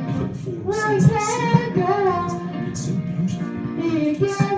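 A young girl singing a gliding melody, with music behind her.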